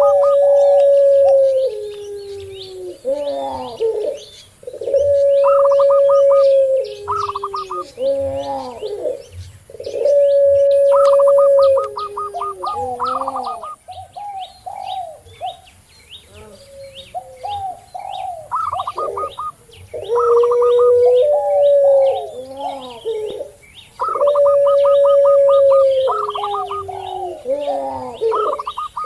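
Several caged doves calling together. A puter pelung (long-voiced dove) repeats its long, drawn-out coo every few seconds, each held steady and then dropping to a lower note. Between these come quick rattling coos of a zebra dove (perkutut) and the calls of a spotted dove (tekukur), over a constant twitter of small birds chirping.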